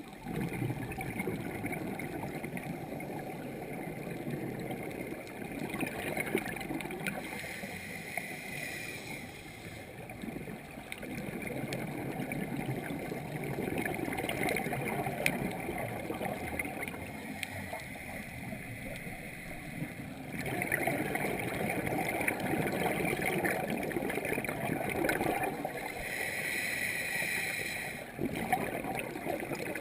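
Scuba diver breathing through a regulator underwater: hissing inhalations alternating with gurgling bursts of exhaled bubbles, in cycles a few seconds long.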